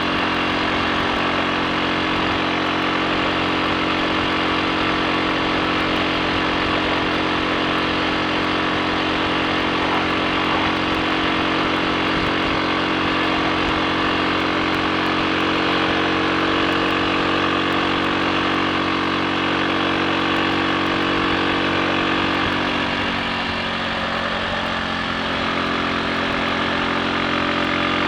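Triumph Sports Cub's single-cylinder four-stroke engine running steadily under way, with no misfire or cutting out. The sound dips slightly a little over twenty seconds in, then picks up again.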